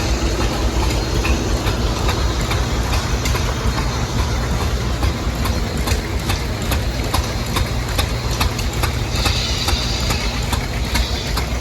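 Vintage engines running, a steady low drone with sharp, irregular ticks and pops over it.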